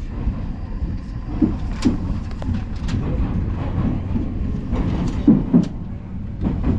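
Odakyu Line electric commuter train running, heard from on board: a steady low rumble with scattered sharp clicks from the wheels on the track.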